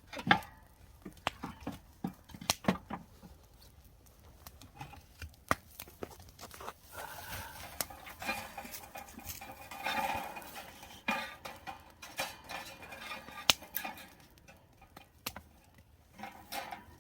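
Scattered clinks and knocks of metal cooking utensils, tongs and cutting tools handled over a grill, with a busier stretch of clatter midway.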